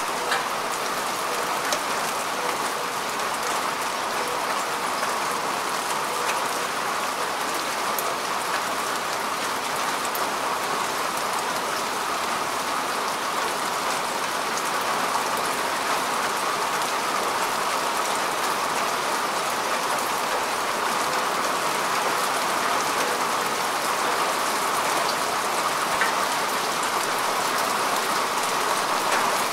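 Steady rain falling on grass and earth, an even hiss with scattered individual drop ticks.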